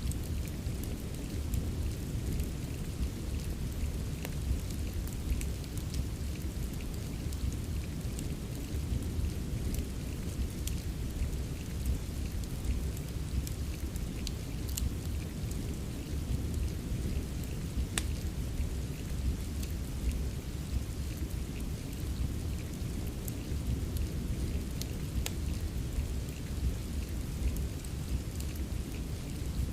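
Steady rain with a low, continuous rumble, and scattered sharp crackles and pops of a wood fire now and then.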